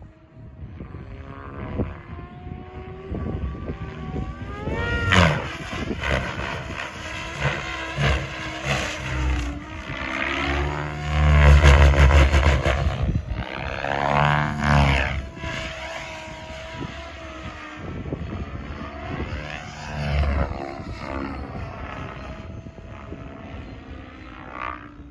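Electric RC helicopter in flight: main rotor blades and motor whine, rising and falling in pitch and loudness as it manoeuvres and passes close, loudest about halfway through.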